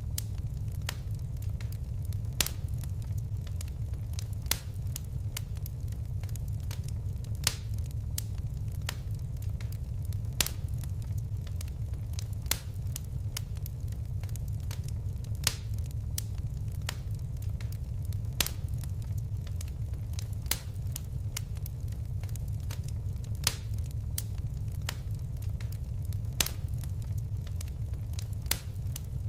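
Fireplace fire crackling: sharp pops every second or so over a steady low rumble of the flames.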